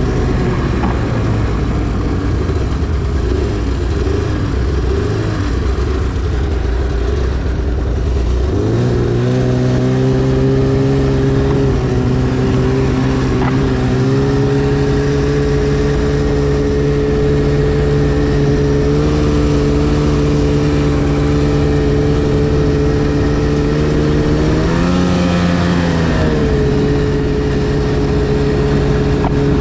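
2010 Arctic Cat CFR 1000 snowmobile's two-stroke twin engine running as it is ridden: uneven at first, then its pitch climbs about nine seconds in and holds steady, with a brief rise and fall again near the end.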